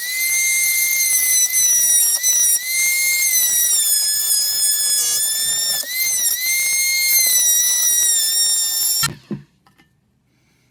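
Electric rotary tool with a die-grinding bit running at high speed, grinding metal out of a Reliant Robin's cast exhaust manifold ports to open them up for better flow. A steady high-pitched whine that spins up at the start, sags slightly in pitch a few times as the bit bites, and stops after about nine seconds.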